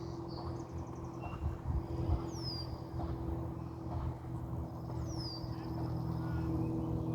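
A songbird repeating a short, high, down-slurred whistle about every three seconds, over a steady low machine hum.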